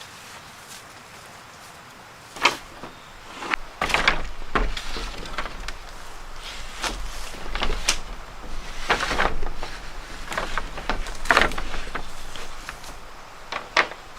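Irregular knocks and scraping, a dozen or so over several seconds, with a steady low rumble underneath through the middle.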